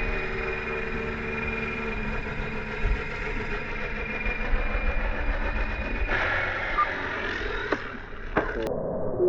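Align T-Rex 470 electric RC helicopter flying, its motor and rotors giving a steady whine. About six seconds in the sound turns rough and falls in pitch as the tail fails, which the pilot says sounded like the tail skipping. Two sharp knocks follow near the end.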